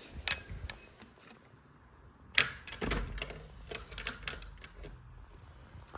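A run of irregular light clicks and knocks, scattered at first, then coming thick and fast for about two seconds; the loudest is the first click of that run, about two and a half seconds in.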